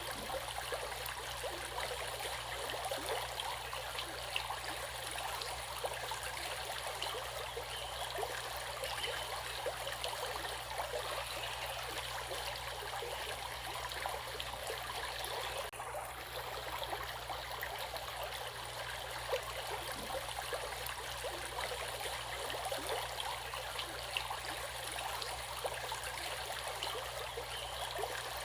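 Running water of a stream: a steady rush with many small splashes, dulling briefly about halfway through.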